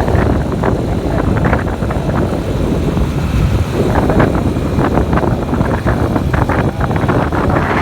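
Motorcycle riding at road speed: wind buffeting the microphone over the steady rumble of the engine.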